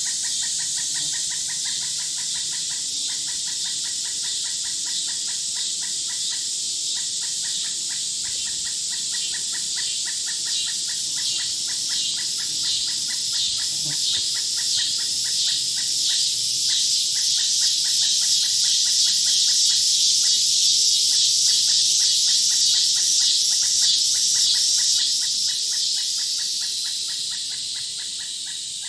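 Insects chirping in a rapid, evenly pulsed trill, over a higher buzzing chorus that swells in the middle and fades near the end.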